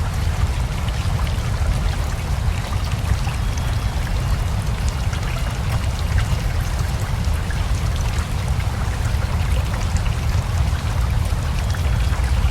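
Steady rain together with a flowing river: an unbroken rush of water with a deep low rumble, and many small drop ticks over it.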